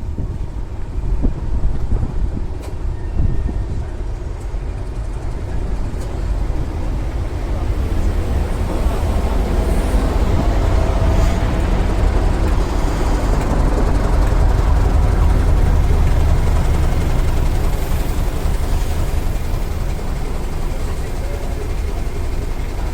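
A train running on the heritage line, a heavy low rumble that swells to its loudest about two thirds of the way through and then eases off.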